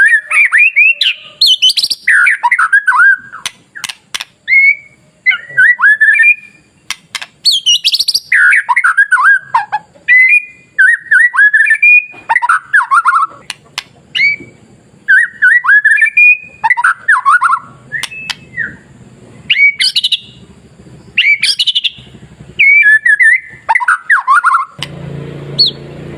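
White-rumped shama (murai batu) singing: loud phrase after phrase of quick sweeping whistles with sharp clicks, each phrase followed by a brief pause. A low hum comes in near the end.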